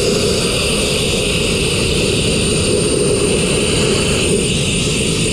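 Mobile sandblasting rig running: a loud, steady machine drone with rushing air, unbroken throughout.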